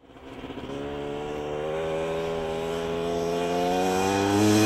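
Honda motorcycle engine coming closer, getting steadily louder as its pitch slowly climbs under acceleration.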